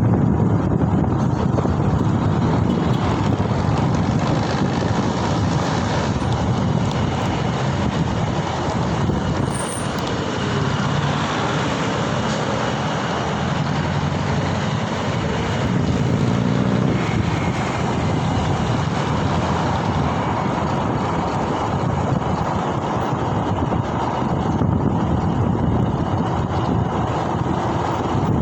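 Steady road and traffic noise with wind rushing over the microphone during a ride on city streets.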